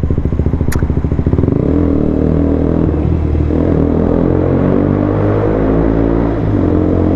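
KTM Duke 125's single-cylinder engine through an Akrapovic exhaust with a decat link, pulsing at low revs, then pulling away about a second and a half in and running on at steady revs. There is a short dip in revs about six seconds in.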